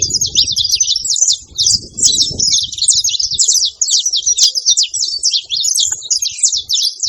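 Saffron finch chirping in a rapid, unbroken stream of high, quick notes.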